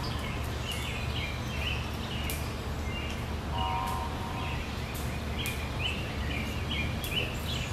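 Outdoor ambience: birds chirping with many short, repeated calls over a steady low hum, with a brief steady tone lasting about a second near the middle.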